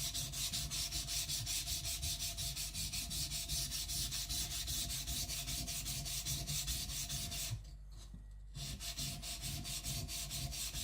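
Kiridashi blade being rubbed back and forth on a wet sharpening whetstone, a gritty scraping in quick, even strokes, several a second, with a short pause about eight seconds in.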